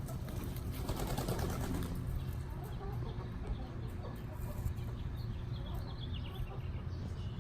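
Birds chirping faintly, with short high calls more frequent in the second half, over a steady low rumble.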